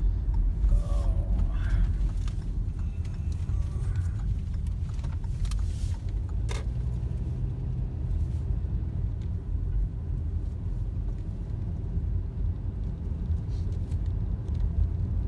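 Car running with a steady low rumble, heard from inside the cabin, with one sharp click about six and a half seconds in.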